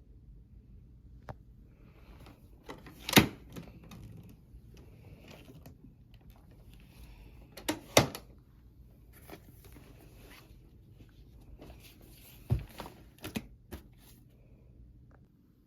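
Handling noise: a series of sharp clicks and knocks, the loudest about three and eight seconds in and a quick cluster near the end, with light rustling in between.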